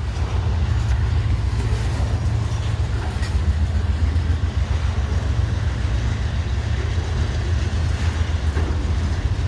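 Freight train rolling past, a steady low rumble of diesel locomotives and rail cars.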